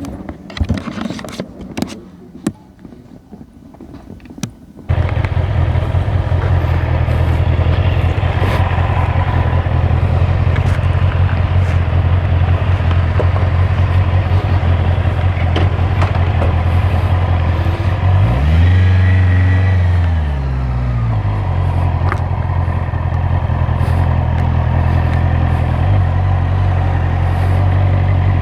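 A motorcycle engine comes in suddenly about five seconds in and runs steadily at idle, with one brief rev that rises and falls in pitch about two-thirds of the way through. A few clicks and handling knocks come before it.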